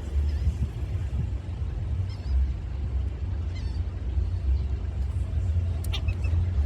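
A steady low rumble runs throughout. A few faint, short, high bird calls come through about two seconds in, again near four seconds, and once more sharply near the end.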